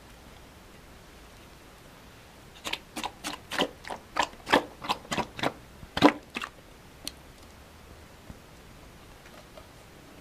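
A quick irregular run of about a dozen sharp clicks or taps over some four seconds, the loudest near the end of the run, followed by one single click a second later.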